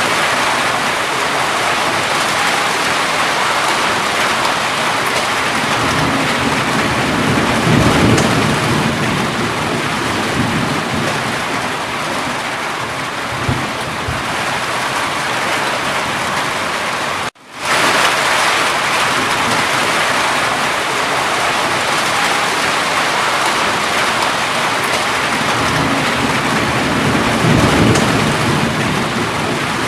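Steady heavy rainfall, with two low rolling rumbles of thunder swelling and fading, one early and one near the end. The sound cuts out for an instant a little past halfway.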